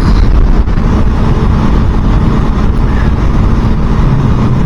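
Wind rush over the microphone and a 250 cc motorcycle engine running at a steady highway cruise of about 65 mph.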